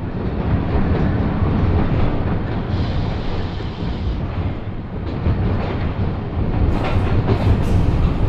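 Train running on rails: a steady heavy rumble with rattling, getting a little louder near the end, when sharp clicks come in.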